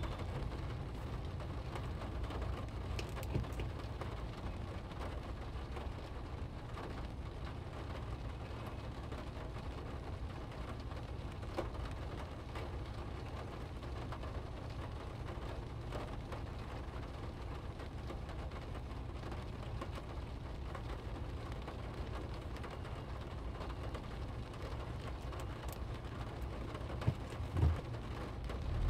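Rain falling on a car's windshield and body, heard from inside the cabin over a steady low rumble, with scattered faint raindrop ticks. A couple of louder knocks come near the end.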